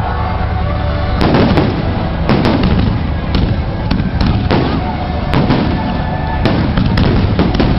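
Fireworks going off: a rapid run of sharp bangs, a dozen or more in the few seconds, over a continuous rumble.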